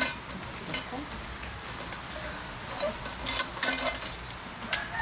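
Metal pot and steamer clinking and knocking as they are handled: a sharp clink at the start and another just under a second in, a cluster of clinks around three and a half seconds in, and one more near the end.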